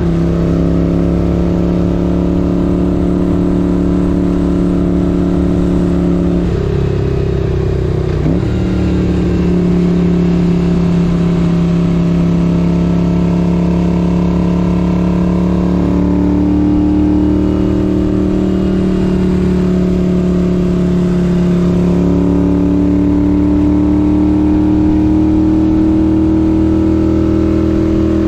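1978 Moto Guzzi 850 Le Mans V-twin engine pulling steadily under way, with a gear change about seven to eight seconds in where the note breaks and picks up again, and the pitch slowly climbing in the second half.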